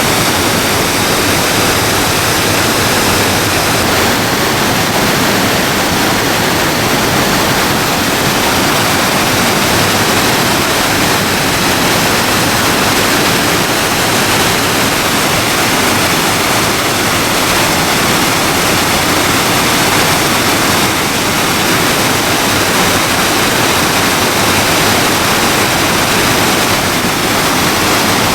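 Loud, steady rush of water from a river swollen by storm rain.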